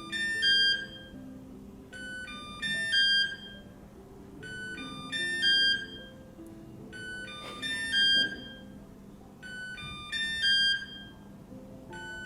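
Kyvol Cybovac E20 robot vacuum's locator alert: a short electronic jingle of several quick high notes, repeated five times about every two and a half seconds, sounding so the robot can be found. Soft background music plays underneath.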